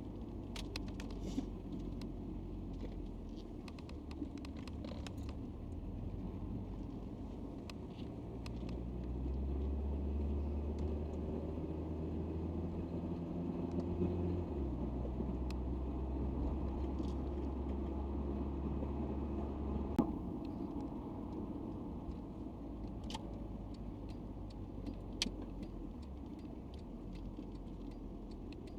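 Citroen XM driving, heard from inside the cabin: a steady low engine drone over road noise. It grows louder about nine seconds in as the car pulls harder, then eases back after about twenty seconds, with a few sharp clicks and rattles from the cabin.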